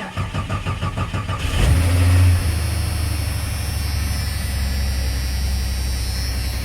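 Rebuilt 4.6L stroker inline-six of a Jeep Cherokee cranking on the starter for about a second and a half, catching, revving briefly, then settling into a steady idle. It runs without the piston-slap knock that the piston replacement was meant to cure.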